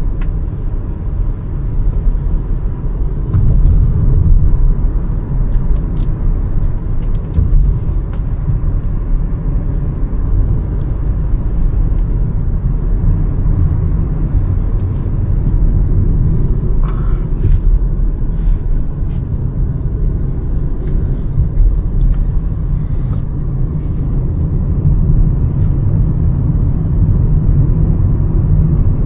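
Hyundai Verna's 1.5-litre turbo petrol engine and tyres during a drive: a steady low rumble, with occasional small clicks and knocks over it.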